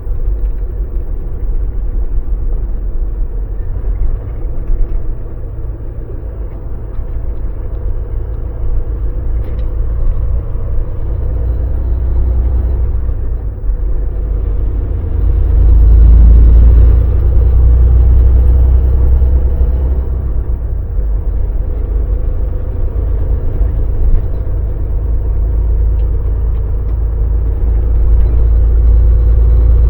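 Volvo VNL semi truck's diesel engine running with road noise, a steady low rumble that grows louder for a few seconds about halfway through.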